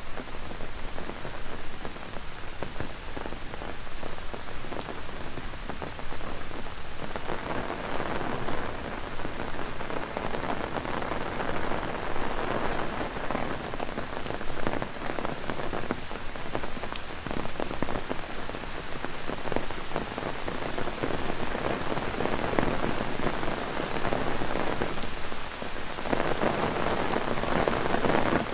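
Heavy rain pattering on an umbrella over a steady, high-pitched cicada chorus. The patter grows denser about a quarter of the way in, eases briefly near the end, then picks up again.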